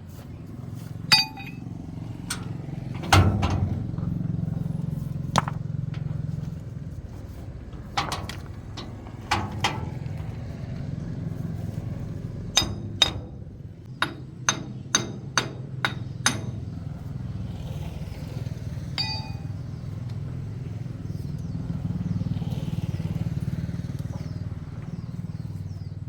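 Metal tools and parts clinking and knocking in short, separate strikes, a quick run of them about three-quarters of the way through, over a steady low hum.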